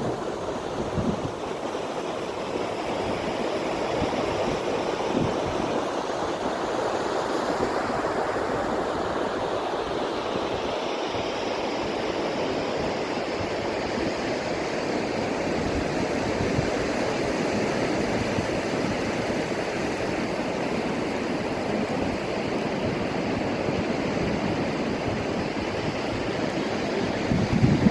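Steady wash of shallow sea water and surf at the shoreline. Wind buffets the microphone briefly at the start and again near the end.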